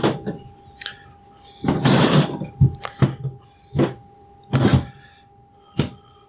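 Several short knocks and thumps of tools and parts being handled on a workbench, over a faint steady hum.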